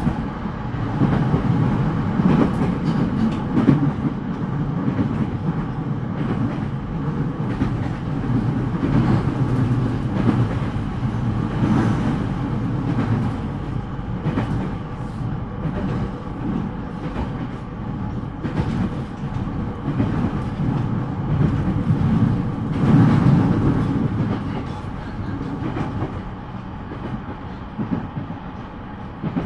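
Running noise of a JR East E231-1000 series electric commuter train at speed, heard from inside the car: a steady rumble of wheels on rail, with irregular clacks over the rail joints. It grows somewhat quieter in the last few seconds.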